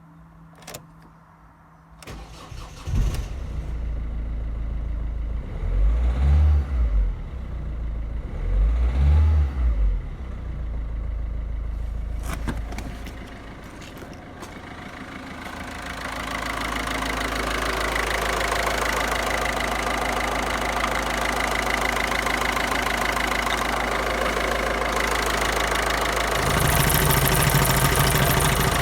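Ford Focus 1.6 TDCi four-cylinder common-rail turbodiesel starting about two seconds in. It is revved up and back down twice, then settles to a steady diesel idle that grows louder near the end.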